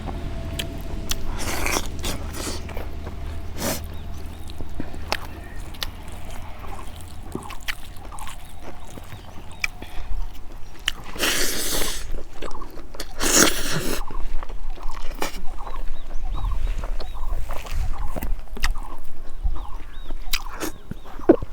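Close-up eating sounds: chewing and handling rice and fish curry, with many scattered small clicks. There are two longer, louder noisy stretches about halfway through.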